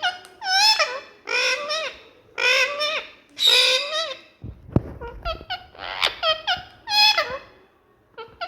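Indian ringneck parakeet squawking and chattering: a run of about seven short, high-pitched calls with gliding pitch, separated by brief pauses.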